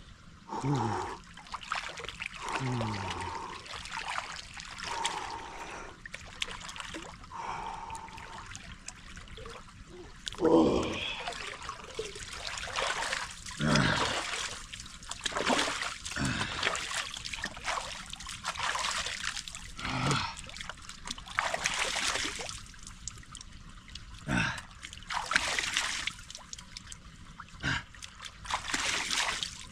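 A person bathing in a cold mountain stream: irregular splashing of water over a steady trickle of running water, with a few short breathy gasps and grunts at the cold.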